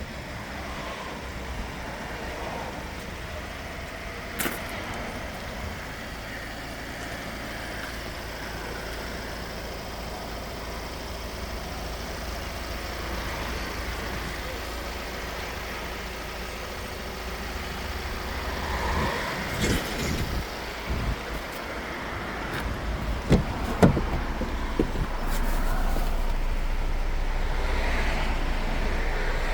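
Steady low vehicle rumble with a sharp click about four seconds in and a cluster of knocks and thuds in the second half; the rumble grows louder near the end.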